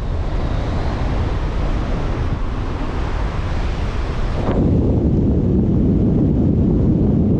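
Wind buffeting the microphone as a steady rushing noise. About four and a half seconds in, it turns into a heavier, louder low rumble.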